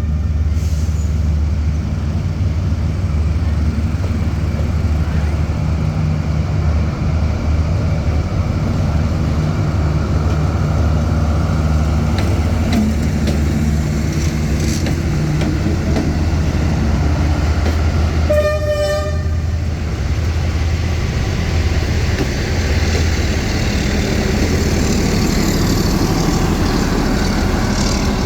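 Train running past with a loud, steady low rumble from the locomotive and wagons on the rails. A short horn toot sounds about two-thirds of the way through.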